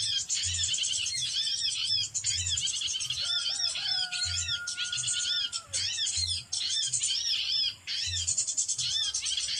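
Dense, high-pitched small-bird chirping that repeats in a regular cycle, with a soft low thump about every two seconds. A long, steady whistle runs through the middle.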